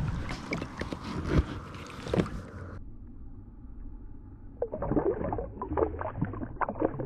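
Scattered knocks, clicks and rustles of a fish and gear being handled aboard a fishing kayak, over a low background noise. About three seconds in, the sound turns duller and quieter, and a fresh run of knocks begins a little before five seconds.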